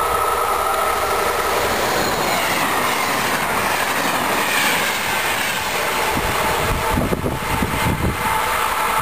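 Regional passenger train hauled by a Trenitalia E.464 electric locomotive passing close by. A steady high whine comes from the locomotive at the start, then the coaches rush past, their wheels clattering on the rails, with squealing that rises and falls in the middle. Low thuds from the wheelsets come near the end.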